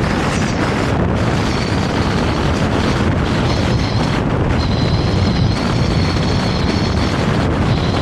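Vario LF2R.E and LFR.E tram set running along the track: a loud, steady rumble with a high, thin whine coming in about halfway.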